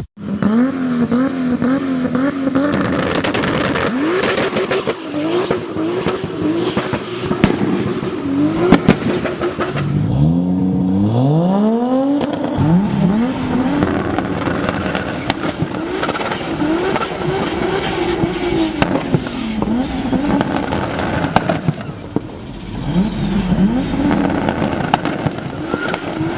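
Single-turbo Toyota Supra's 2JZ straight-six engine revving hard and bouncing on a rev limiter, with sharp pops and crackles from the exhaust. The revs wander up and down and climb steeply a couple of times about halfway through.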